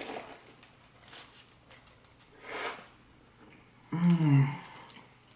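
A person eating a mouthful of donair, with soft breaths and sniffs through the nose, and a short hum of a voice about four seconds in.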